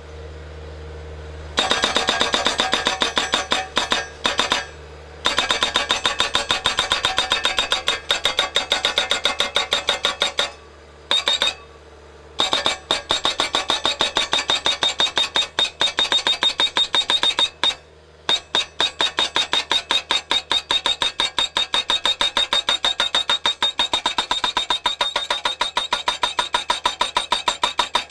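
Eterra PDX-1000 hydraulic breaker-style post driver hammering a post: a rapid, even run of metallic blows with a ringing tone. The blows stop briefly four times, leaving the skid steer's engine running underneath.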